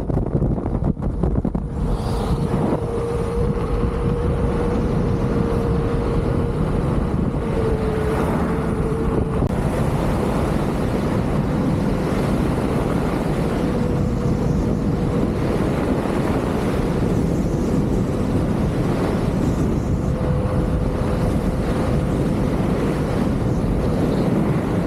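Wind rushing over the microphone while riding a Leaperkim Lynx electric unicycle, with a faint steady whine from its hub motor that dips in pitch briefly about eight seconds in.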